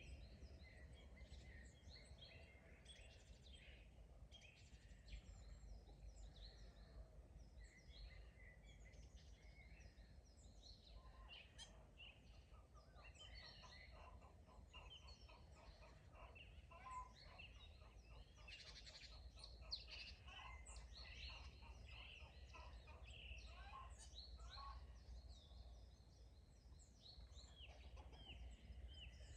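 Faint dawn chorus of many songbirds chirping and singing over one another. About a third of the way in, domestic fowl give a rapid run of calls. A low steady rumble lies underneath.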